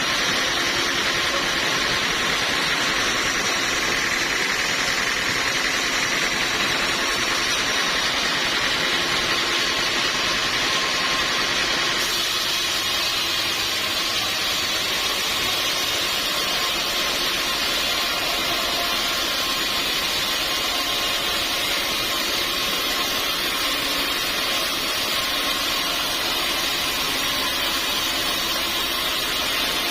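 Sawmill saw running steadily, a loud even machine noise that shifts abruptly in character about twelve seconds in.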